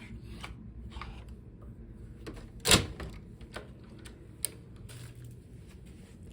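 Scattered light clicks and taps of small objects being handled, with one louder knock about a third of the way in and a sharp click a little later.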